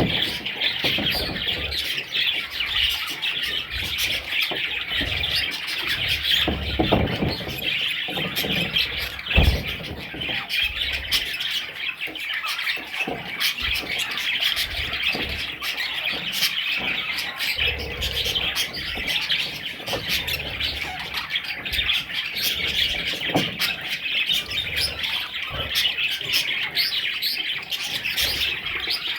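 Budgerigars chattering, chirping and squawking continuously in a dense overlapping stream, with one loud thump about nine seconds in.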